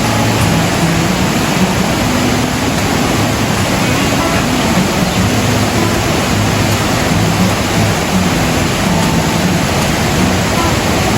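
Steady rushing of water, an even hiss that holds without a break; heavy rain or a fast river.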